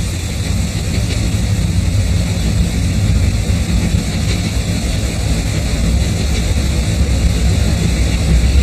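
A steady, fairly loud low mechanical rumble, like a running engine or heavy machinery, with no clear rhythm or tone.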